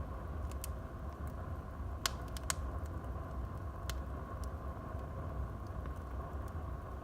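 Wood fire burning in a fireplace: a steady low rumble of the flames with scattered sharp crackles and pops of the burning logs, the loudest about two seconds in and again half a second later.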